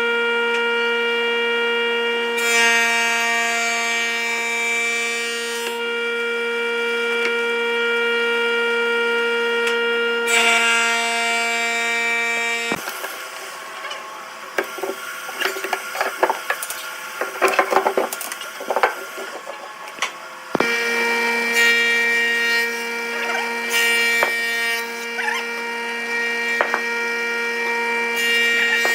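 Wood lathe running with a steady motor whine while a turning tool cuts the spinning wood in two hissing passes. About 13 seconds in the motor sound stops, giving way to irregular knocks and scraping of wood. The motor starts up again about 20 seconds in.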